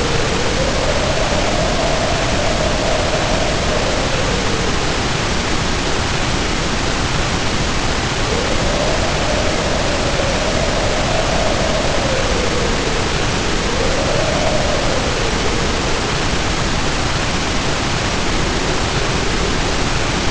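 Heavy rain pouring steadily, with wind howling over it in slow swells that rise and fall in pitch, three times.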